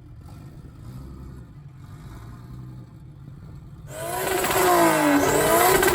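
A car engine running low and steady, then from about four seconds in a much louder engine revving, its pitch rising and falling several times.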